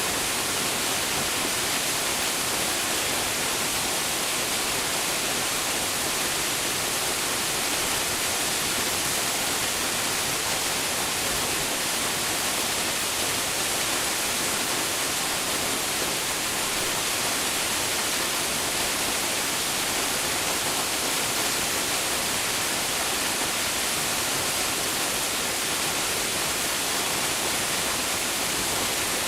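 Waterfall: a steady, even rush of falling water, brightest in the high range, with no other events.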